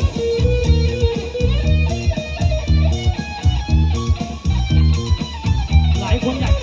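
Band playing an instrumental passage: an electric guitar lead with held and bent notes over bass guitar and a steady beat.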